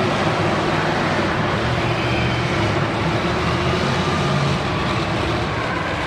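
Monster truck engine running loud and steady, its pitch shifting up and down as it revs.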